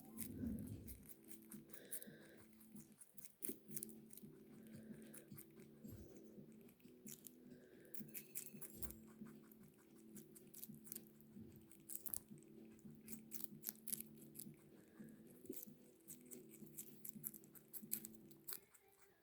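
Young lionhead rabbit chewing leafy greens (watercress and carrot tops): faint, rapid, crisp crunching clicks that go on without a break.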